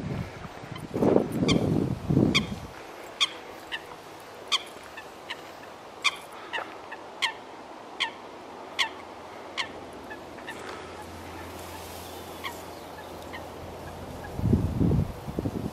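A bird calling over and over, a string of short falling notes at about one or two a second that fade out about two-thirds of the way through. Wind buffets the microphone at the start and again near the end.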